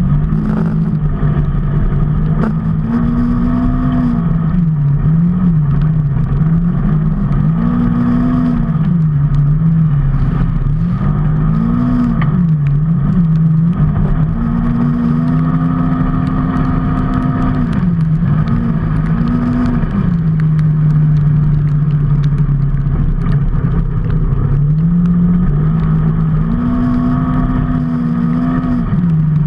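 A vehicle engine running under way, its pitch rising and falling every few seconds as it speeds up and eases off, over a steady rush of road noise.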